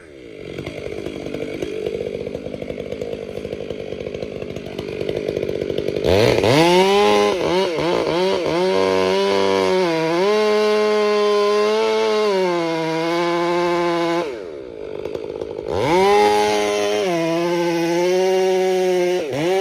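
Gas chainsaw idling, then revved to full throttle about six seconds in and cutting, its pitch sagging under load as it bucks up the felled tree. About two-thirds of the way through it drops back to idle for a moment, then revs up and cuts again.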